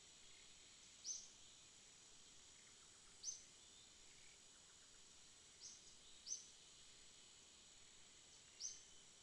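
Faint night ambience: a steady high drone of night insects, with a short high chirp about every two seconds, five in all.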